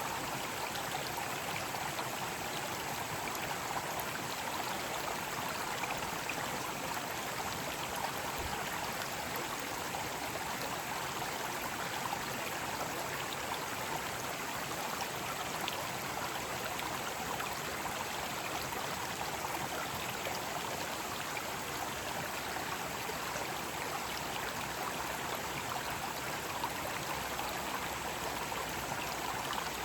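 Mountain stream rushing over rocks: a steady, even water noise with no change.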